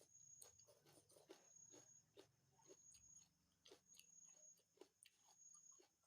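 Faint close-up chewing and wet mouth sounds of a person eating chicken curry and rice, with irregular soft smacks and clicks.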